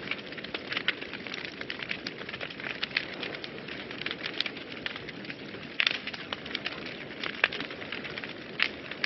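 Wood fire burning in a fireplace: a steady hiss with frequent small crackles and snaps, and a few louder pops in the second half.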